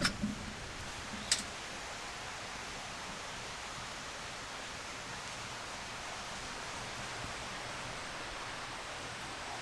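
A steady rushing hiss of outdoor ambience, with a couple of sharp clicks in the first second and a half.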